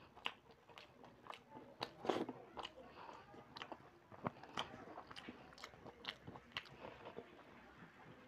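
Close-up eating sounds of a man chewing rice and chickpea-potato curry by hand: irregular wet mouth clicks and lip smacks, with a louder burst about two seconds in.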